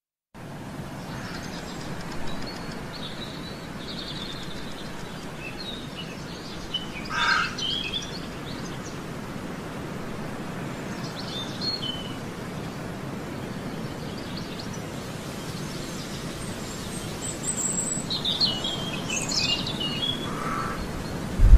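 Small birds chirping and trilling now and then over a steady outdoor background hiss, with the clearest calls about a third of the way in and again near the end.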